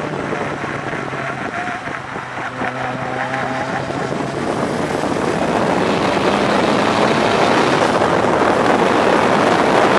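Toyota Starlet Glanza (EP91) four-cylinder engine driven hard on a track lap, heard through heavy wind and road noise on a door-mounted camera. It eases off about two seconds in, then grows steadily louder as the car accelerates.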